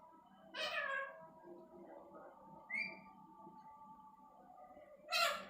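Pet parrot calling: two loud harsh squawks, about half a second in and near the end, with a short high chirp in between.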